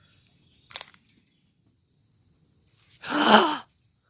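A steady high trill of crickets, a single sharp click a little under a second in, then about three seconds in one short, loud, breathy cry.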